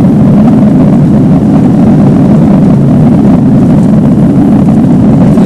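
Airbus A330 cabin noise during the climb just after takeoff: a steady, loud, low rumble of the jet engines and rushing air.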